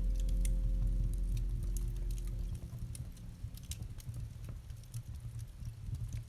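Campfire crackling with scattered sharp pops over a low rumble, while a held low chord of the piano music dies away about halfway through.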